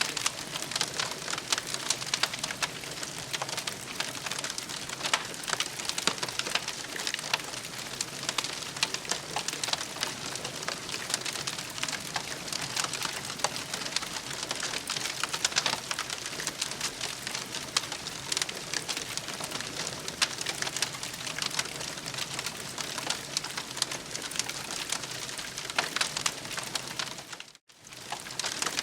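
Campfire crackling steadily, a dense run of small pops and snaps. The sound drops out briefly about a second before the end.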